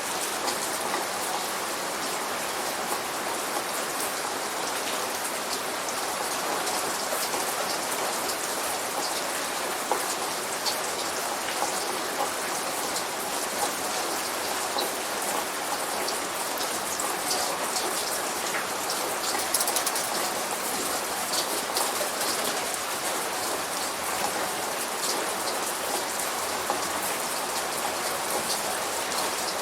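Steady light rain falling on a surface, a dense even patter of many small drop ticks.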